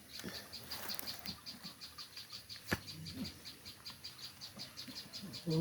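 Insect chirping in a steady high-pitched pulsing trill, about six or seven chirps a second. A single sharp click sounds a little under three seconds in.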